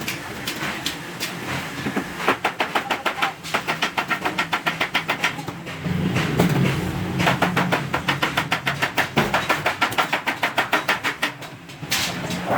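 Hammer tapping stainless steel sheet in quick, even strokes, about six a second, in two long runs with a short pause between them.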